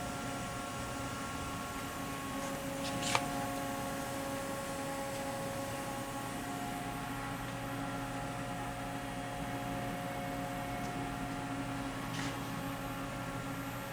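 Steady electrical hum with several constant tones from a powered-up Haas VF-2YT vertical machining center standing idle, with a brief click about three seconds in.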